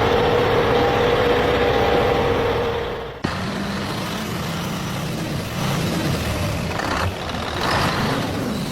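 Truck engine running with a steady whine. About three seconds in it cuts abruptly to a quieter, lower, varying running sound.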